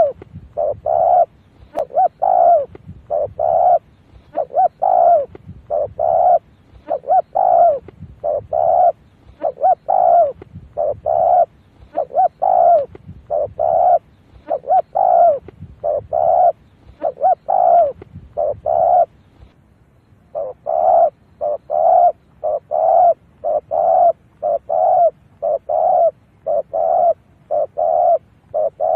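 A spotted dove cooing over and over: a steady run of short, low coos about one a second, with a short pause about two-thirds of the way in. It is a decoy call used to draw wild doves in to a trap.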